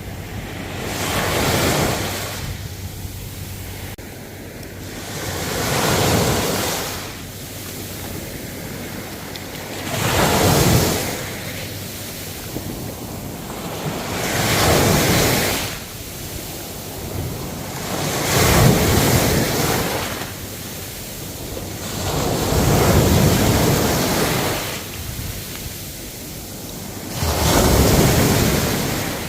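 Ocean waves breaking on the shore, a loud surge of surf about every four seconds, each washing back down to a softer hiss between breakers.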